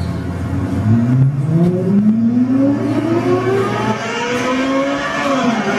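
Car engine sound effect: an engine accelerating hard, its pitch rising repeatedly through several gear changes.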